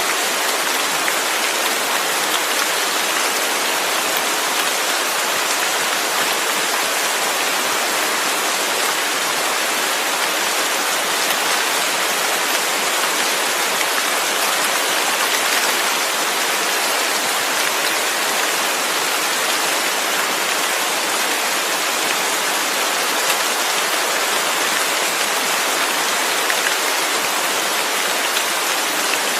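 Steady rain falling, an even hiss of drops with no thunder or changes.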